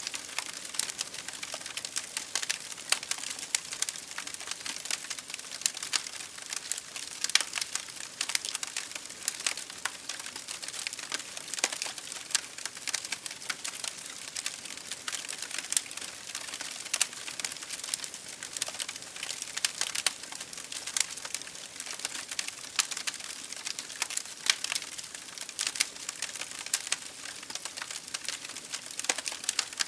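Wood fire burning in an open fireplace, with dense, irregular crackles and pops over a steady hiss.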